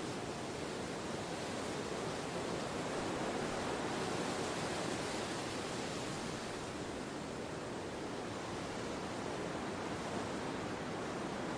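Wind blowing as a steady rushing hiss that swells a little about four seconds in and then eases.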